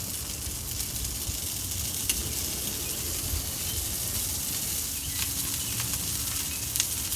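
Butter sizzling on the hot charcoal kamado grill as it runs off the chicken: a steady hiss with a few faint crackles.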